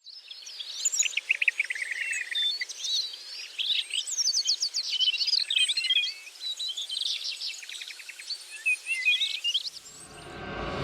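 Dense chorus of many tropical forest birds chirping, trilling and whistling over one another. A low musical swell rises in near the end.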